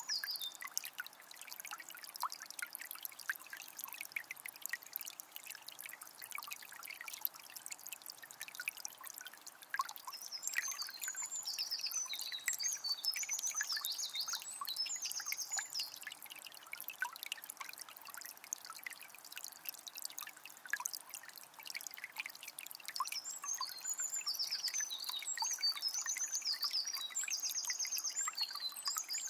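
Calm forest river trickling and babbling steadily, full of small splashes and gurgles. A songbird sings in two spells of high, rapid trills: one about a third of the way in and one near the end.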